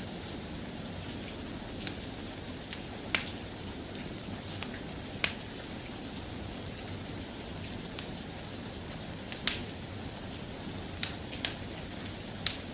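Steady soft rain, with irregular sharp ticks and pops scattered through it, about a dozen of them.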